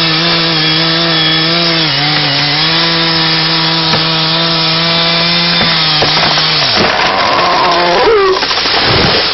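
Two-stroke chainsaw running at high revs, cutting, with a steady engine note that wavers briefly. About seven seconds in, the engine note drops away and a brief falling whine follows.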